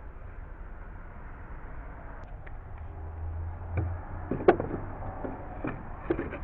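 A few sharp knocks and clicks, the loudest about four and a half seconds in, over a low steady hum.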